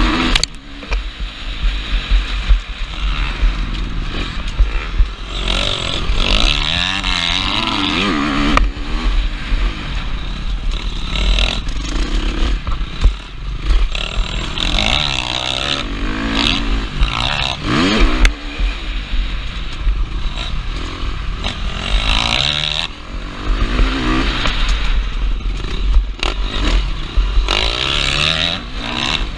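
KTM 350 SX-F's single-cylinder four-stroke engine revving up and falling back over and over as it is ridden hard round a motocross track, with heavy wind buffeting on the helmet camera and scattered knocks from the bumps.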